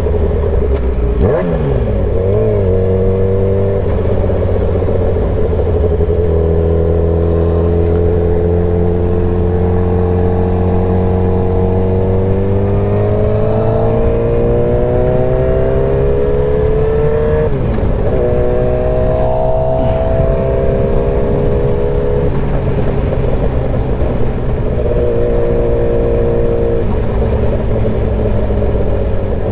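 2003 Yamaha R1's inline-four engine, through an aftermarket exhaust, pulling on the move. The engine note climbs steadily for about ten seconds, drops with a gear shift a little past halfway, then holds steady. There are shorter shifts in the first few seconds.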